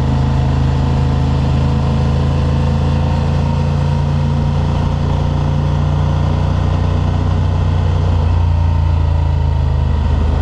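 Honda Transalp's 755 cc parallel-twin engine running at steady revs while the motorcycle is ridden, with road noise over it.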